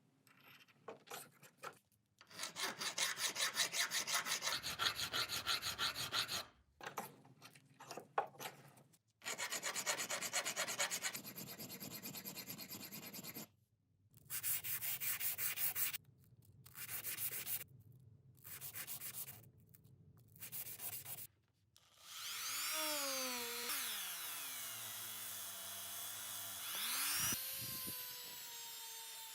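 Rough abrasive rubbing on the cast-iron and bronze parts of an antique candy roller, heard in several separate bursts with abrupt stops between them. Near the end a small power tool whines, its pitch falling and rising before it settles to a steady tone.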